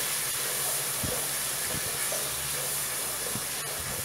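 Grated onion and garlic sizzling in hot margarine in a pot, a steady hiss, stirred with a wooden spoon that gives a few soft knocks.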